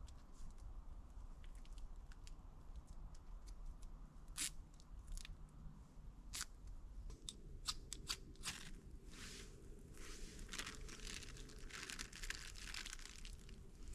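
Campfire being lit: scattered sharp clicks and scrapes, then a quick run of longer scraping and tearing strokes in the second half, as a ferro rod is struck and tape is torn over dryer lint soaked in hand sanitizer.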